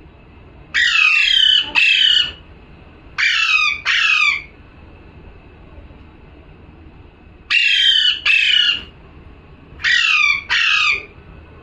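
Pet parrot squawking in four double calls, each pair made of two harsh, slightly falling screeches.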